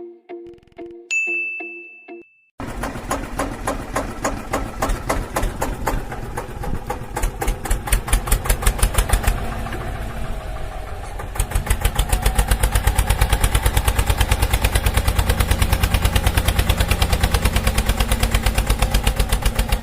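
A single ding, then a steadily pulsing, chugging engine sound like a tractor's diesel running, starting about two and a half seconds in and getting louder with a quicker beat about halfway through.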